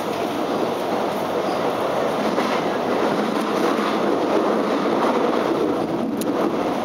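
X'Trapolis electric suburban train running along the track, heard from inside the carriage: a steady rumble of wheels on rails with a few faint clicks.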